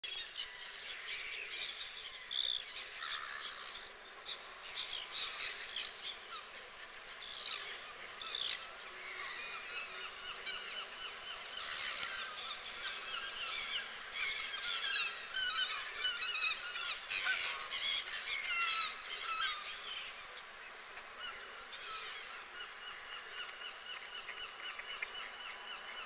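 Birds calling: many short, high chirps and squeaky calls, busiest up to about twenty seconds in and then thinning out, over a faint steady hiss.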